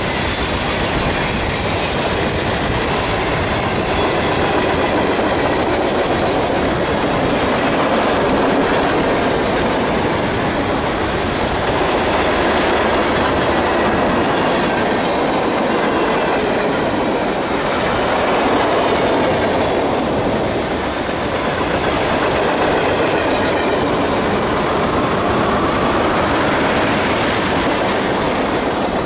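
Freight cars, including flatcars and covered steel-coil cars, rolling past close by: a steady rumble of wheels with clickety-clack over rail joints and faint wheel squeal. A thin squeal rises in pitch near the end as the last cars go by.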